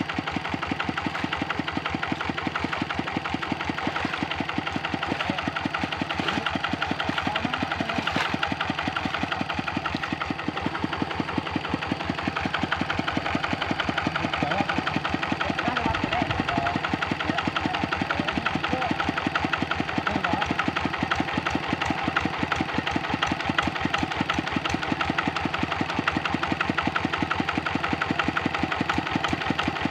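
Kubota RD65 single-cylinder diesel engine on a hand tractor running steadily, with a rapid, even firing beat.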